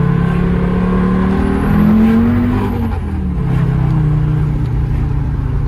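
Mercedes diesel car engine running, rising in pitch about a second and a half in as it revs up, then dropping back near three seconds in and running steadily again.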